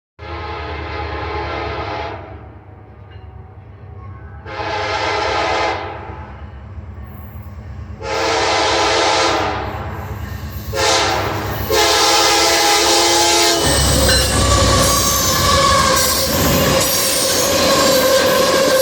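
Freight train with Union Pacific diesel locomotives: the locomotive horn blows four times over a low engine rumble. Then the train passes, with steel wheels squealing on the rails over a loud rushing clatter.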